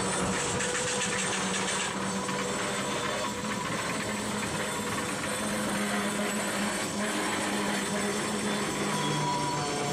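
Freight train rolling past: a steady rush of steel wheels on rail with a few steady tones from the train running through it.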